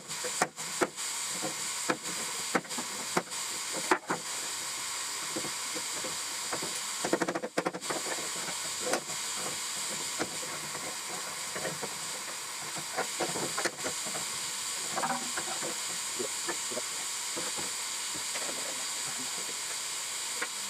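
Sharp metal knocks and clanks from work on a steel leaf-spring pack: a run of evenly spaced strikes, then a quick cluster, then scattered lighter clicks, over a steady hiss.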